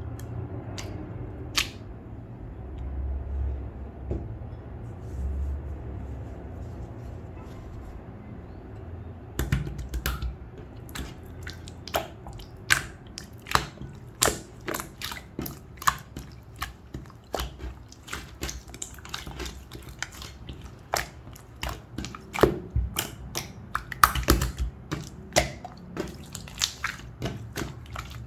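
Clear slime being squeezed and stretched by hand, giving crisp irregular pops and clicks as trapped air bubbles burst. For the first third or so there is only a low rumble of handling with an odd click; then the pops come quickly, several a second.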